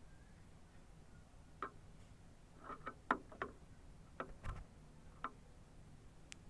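Light, irregular ticks and taps from a canary moving and pecking in its cage, not singing. There is a quick cluster of taps near the middle and a soft low thump about four and a half seconds in.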